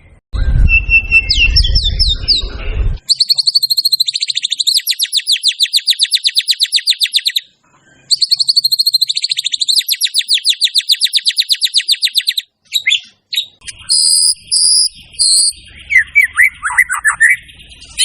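White-rumped shama (murai batu) singing in full song: two long, very fast trills of about four seconds each with a short break between, then short high whistled notes and a few falling notes near the end. A low rumble sits under the first notes.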